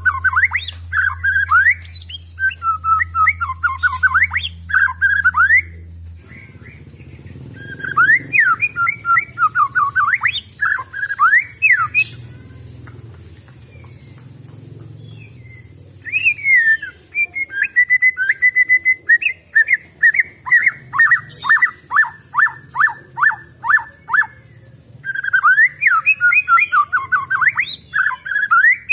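White-rumped shama (murai batu) singing in loud phrases of quick whistled and chattering notes, separated by pauses of a few seconds. A long phrase in the middle ends in a fast run of repeated falling notes.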